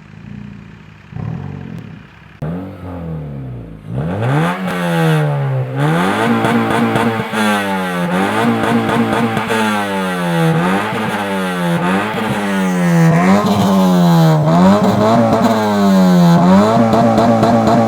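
Exhaust note of a modified Honda Civic with a full-system aftermarket exhaust, the engine revved repeatedly. A few short blips come first. From about four seconds in, the revs rise and fall evenly, about every one and a half seconds.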